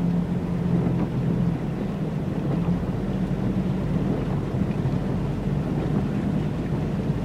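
Car driving through flood water, heard from inside the cabin: a steady low engine drone under a constant rushing wash of noise.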